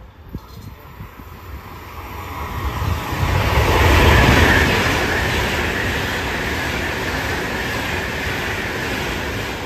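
Trenitalia Frecciabianca electric passenger train passing close by on the station track. Its wheel-and-rail rumble builds to a peak as the front passes about four seconds in, then continues as a steady rush while the coaches go by.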